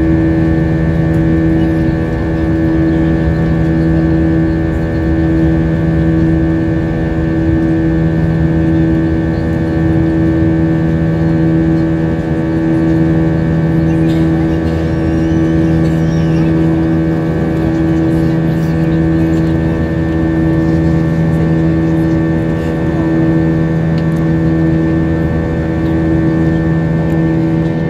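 Steady cabin drone of an Airbus A320-232 in flight, heard from a seat inside the cabin: the constant hum of its IAE V2500 turbofan engines and the rush of air past the fuselage, with a few steady tones over a low rumble.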